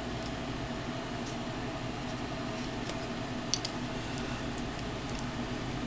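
Steady low room hum with a few faint clicks of a plastic action figure's joints being moved by hand, about three and a half seconds in.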